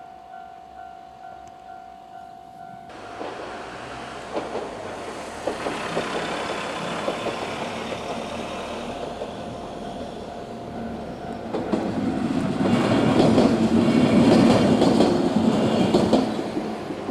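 Level crossing warning bell ringing in a steady pulse while a 103 series electric train comes up and runs over the crossing. The train starts about three seconds in, its wheels clacking over the rail joints, and is loudest a little before the end.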